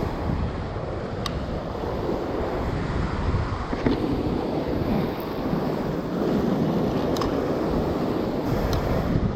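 Heavy ocean surf washing and breaking in swells, with wind buffeting the microphone and a few faint clicks.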